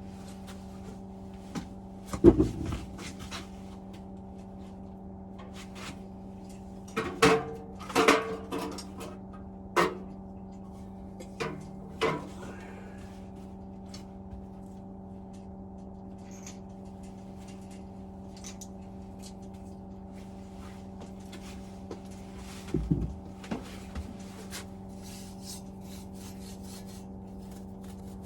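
Scattered knocks, scrapes and clatter of the boiler's metal parts being handled as the flue hood of a Vaillant turboMAX is slid out. There is a steady low hum underneath, and the louder knocks come about two seconds in, around seven to eight seconds, and again near the end.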